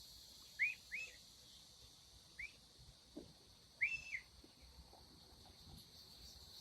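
About five short, faint bird chirps, in two pairs and a single, over a steady high chorus of crickets.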